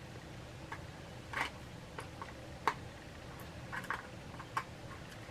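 Faint, scattered small clicks and taps from hands handling an enamel collector pin and its blind-bag packaging, about eight light ticks at irregular intervals.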